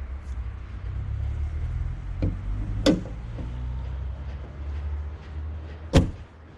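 A steady low rumble with two sharp knocks, then a loud car door slam about six seconds in.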